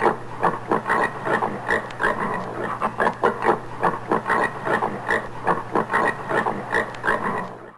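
Common warthog grunting: a fast, continuous run of short grunts, several a second, that stops abruptly near the end.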